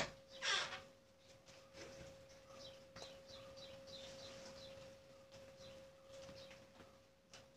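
Faint chewing and mouth sounds of someone eating with her hands, with a brief louder sound about half a second in, over a steady thin hum.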